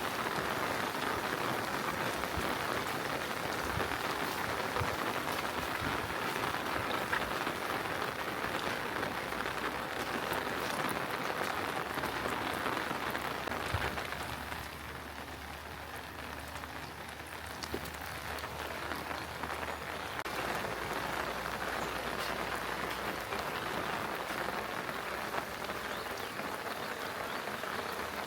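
Steady rain falling, a dense even patter with scattered sharper drop hits. It softens for several seconds midway, then picks up again.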